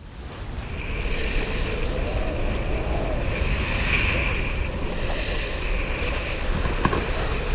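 Boat under way at sea: wind buffeting the microphone and water rushing, with a steady high whine over it, swelling up over the first second.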